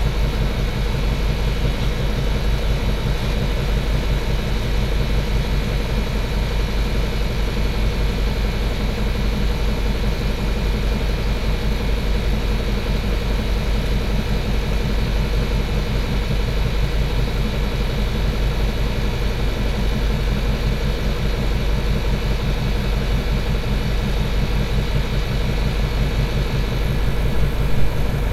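A machine running steadily, with a low hum and an even, fast throb.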